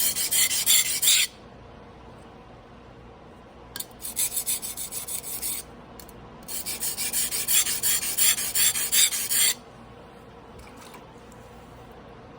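Carbon-steel Damascus sashimi knife blade being stroked back and forth on a whetstone by hand, a quick scraping rasp about five strokes a second. It comes in three runs: one stopping about a second in, another from about four to five and a half seconds, and a longer one ending near ten seconds, then the strokes stop.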